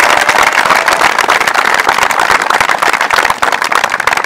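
Crowd applauding, many hands clapping fast and steadily, dying down near the end.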